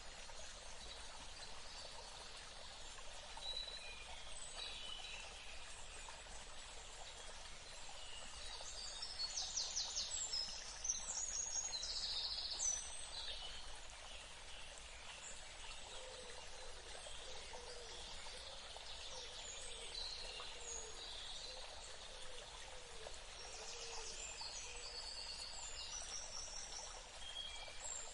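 Several birds chirping and trilling over a steady background hiss, with quick rapid trills clustering around a third of the way in and again near the end. A run of lower short calls repeats through the second half.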